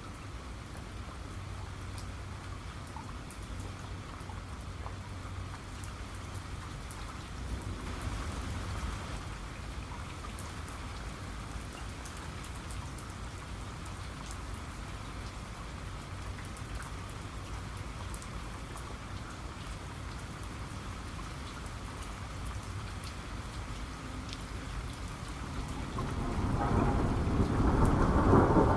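Steady rain with scattered sharp drop ticks. A faint rumble swells about eight seconds in, and a louder rumble of thunder builds near the end.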